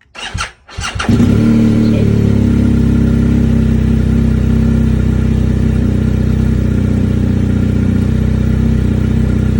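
2020 BMW R 1250 GS Adventure boxer-twin engine being started: a brief, broken cranking with a hesitation before it catches about a second in, then idling steadily. The hesitation persists even with a fully charged 220 CCA battery, so the owner believes something other than the battery is wrong.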